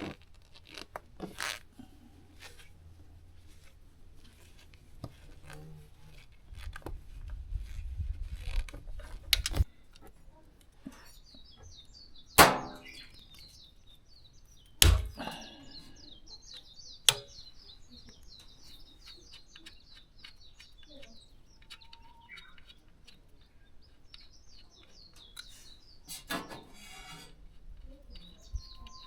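Three sharp knocks, with a few fainter clicks, over a low rumble in the first part. Small birds chirp repeatedly in the background through the second half.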